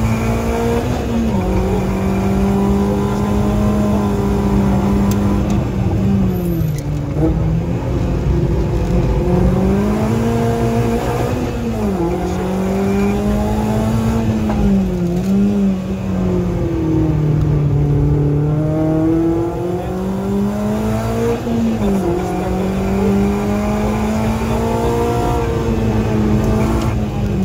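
Renault Clio 3 RS rally car's 2.0-litre four-cylinder engine heard from inside the cabin, revving hard near 7000 rpm. Its pitch climbs steadily under acceleration, then drops sharply and recovers over and over as the car brakes and gets back on the throttle between bends.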